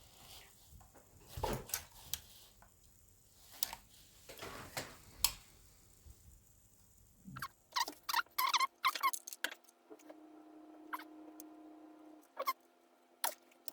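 Scattered small clicks and taps, then a quick run of squeaky clicks, as hands push thin flexible tubes onto the plastic connectors of a scale model's control unit.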